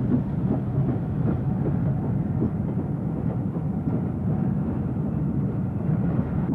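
Train running on rails, a steady rumble of wheels and rolling stock.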